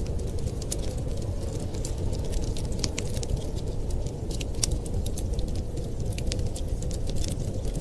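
Wood fire crackling in a fireplace: many quick, irregular pops and snaps over a steady low rumble.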